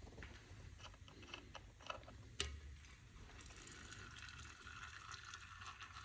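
Faint handling noises from parts and their packaging: a few light clicks and knocks, a sharper click about two and a half seconds in, then a steady rustle over the last few seconds.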